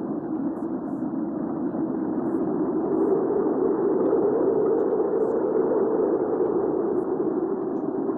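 Hurricane wind ambience: a steady, low, rushing wind that swells slightly in the middle and eases again.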